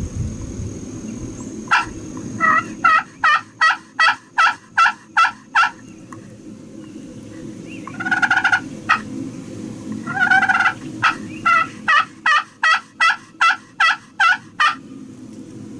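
Turkey hen yelps sounded on a hunter's turkey call: a run of sharp, evenly spaced notes about three a second, two longer drawn-out notes, then a second run of yelps.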